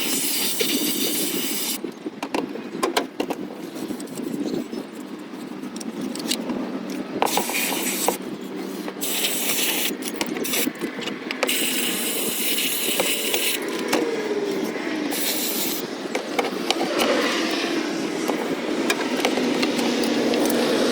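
Aerosol throttle body cleaner sprayed in several separate hissing bursts into the throttle body of a 2017 Nissan Titan's V8, with sharp clicks and scrapes from handling parts between them.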